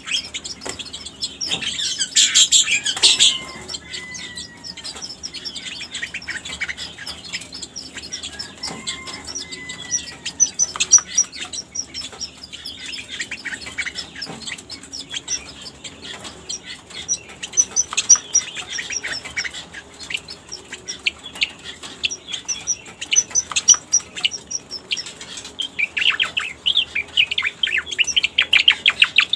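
Cica koreng bird lure recording: rapid, continuous high chirps and trills, with a couple of drooping whistled notes, used to call in wild cica koreng.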